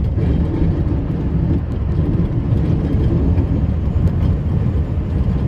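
Snowplow truck's engine running steadily as the truck drives into soft snowdrifts, a continuous low rumble.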